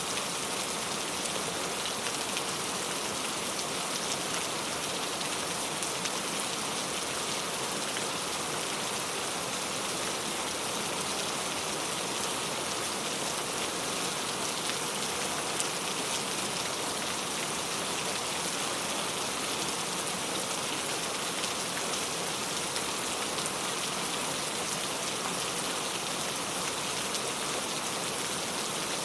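Steady rain falling, an even hiss of raindrops with faint individual drop ticks.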